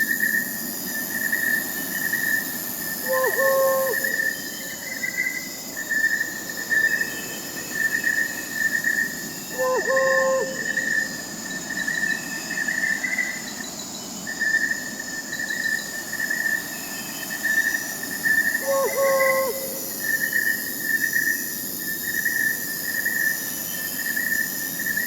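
Crickets chirping in a steady, rapidly pulsing chorus at several pitches, overlaid by a short, low owl hoot three times, several seconds apart.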